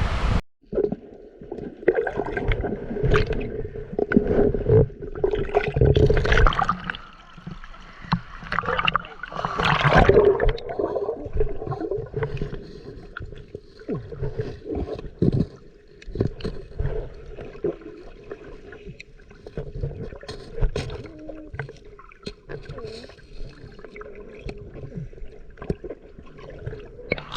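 Water splashing and gurgling around a kayak, with irregular splashes that come louder about six and ten seconds in.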